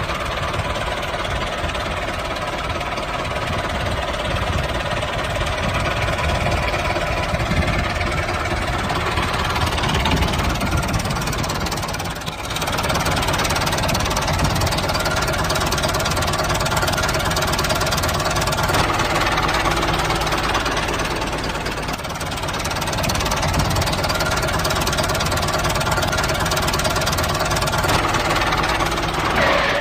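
The small motor of a handmade miniature tractor runs steadily while it pulls a disc plough, with a continuous whine over a rattling drone. The level dips briefly twice, about 12 and 22 seconds in.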